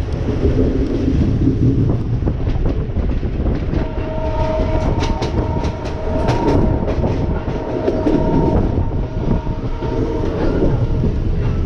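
Train running along the track: a steady low rumble with the clicks of wheels over the rails. A steady high tone comes in about four seconds in and stops about two seconds before the end.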